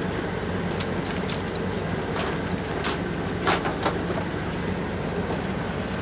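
Vehicle engine running steadily at low revs, with several sharp metallic clinks and rattles over it, the loudest about three and a half seconds in.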